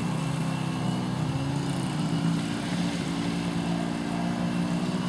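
Small 50cc engine of a children's off-road vehicle running at a steady low speed, its pitch wavering slightly.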